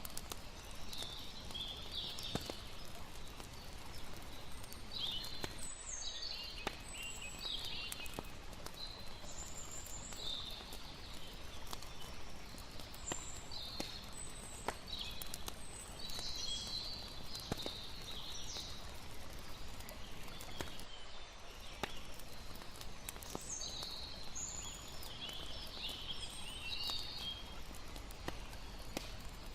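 Layered campfire night ambience: a steady wash of water, a crackling fire giving irregular sharp pops throughout, and scattered short high chirps of crickets or other night creatures.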